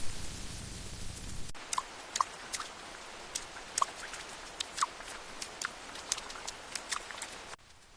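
Steady rain hiss that cuts off abruptly after about a second and a half, giving way to scattered, irregular water drops dripping and plinking. The drips stop with another abrupt cut near the end.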